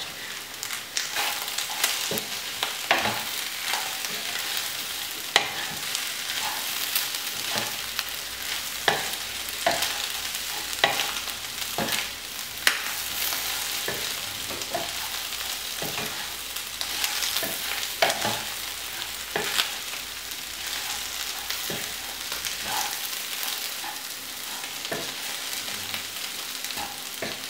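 Beef pieces frying in oil in a nonstick pan, sizzling steadily, while a wooden spatula stirs them with irregular scraping knocks against the pan. The beef is almost fried dry.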